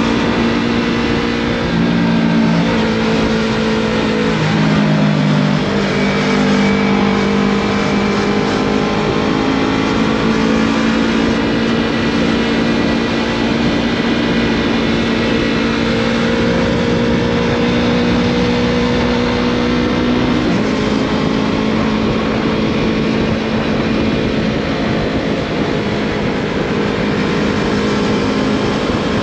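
Yamaha MT-03 motorcycle engine breathing through a Scorpion full exhaust system, running steadily under way. Its note steps in pitch a few times near the start and again about two-thirds of the way through.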